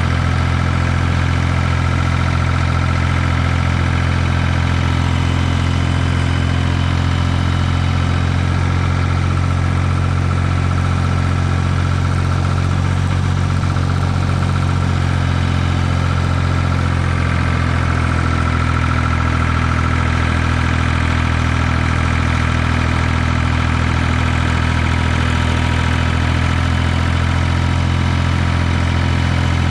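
Ford 2000 tractor's three-cylinder diesel engine running steadily at a constant speed.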